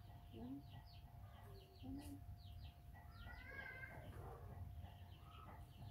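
Faint quick chirps of small birds, repeated in little clusters, over a low steady hum. A longer wavering call comes about three seconds in.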